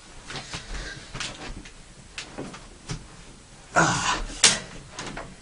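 Handling noises: scattered light clicks and knocks, then a louder rustling clatter with one sharp click about four seconds in.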